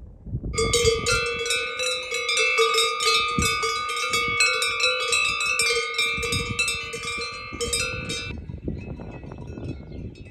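Metal cowbells clanging rapidly and without a break, ringing at a few fixed pitches. The clanging stops abruptly about eight seconds in, leaving fainter clanks.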